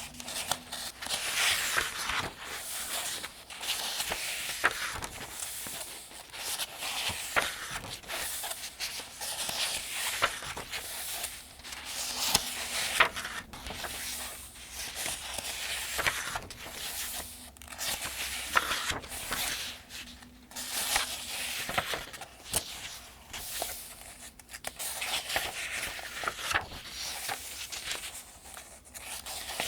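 Paper pages of a thin almanac being turned one after another at a steady, unhurried pace, each turn a soft swish and crackle of paper.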